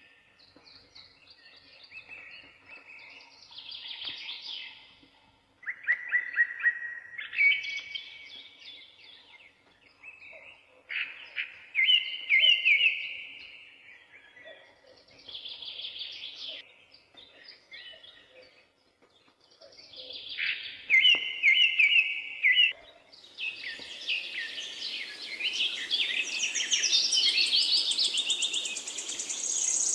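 Songbirds singing in short bursts of rapid chirping notes, a phrase every couple of seconds. About three-quarters of the way through, the song becomes continuous and denser, with higher notes added.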